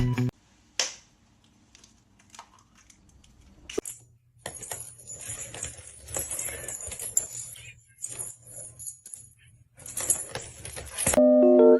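A jingling rattle, coming in several stretches with short breaks between them. Piano music comes in loudly near the end.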